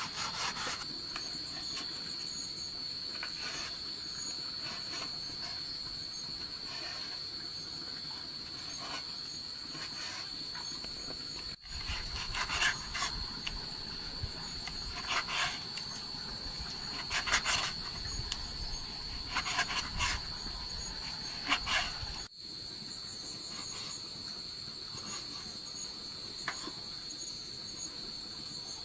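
Insects, crickets by their sound, trilling in a steady high drone. In the middle stretch, between two abrupt cuts, scattered knocks and clatter sound over the insects.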